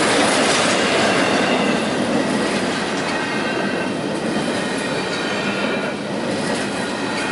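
Empty double-stack intermodal well cars of a freight train rolling past, their steel wheels rumbling and clattering steadily over the rail joints. A faint high-pitched wheel squeal rides over the rolling noise from about the middle on.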